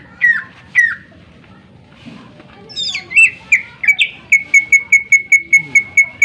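Cucak ijo (green leafbird) singing loudly. Two sharp downward-sliding whistles come first, then after a pause a burst of notes and a fast even run of short clear notes, about six a second.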